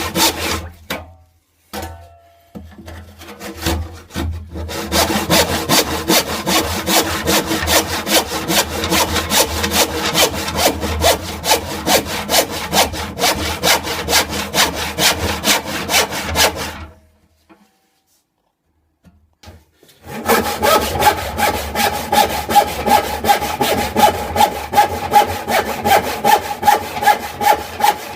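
Hand saw cutting wood in steady back-and-forth strokes, about two or three a second. It pauses briefly near the start and stops for a few seconds past the middle, and when the sawing resumes a ringing tone sounds through each stroke.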